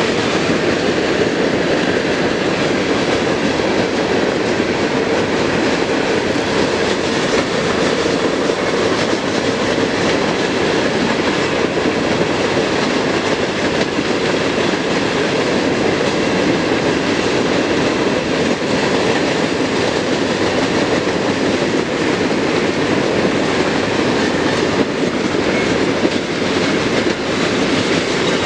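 Cars of a CSX coke train, tall open-top hoppers, rolling steadily past on steel wheels over the rails.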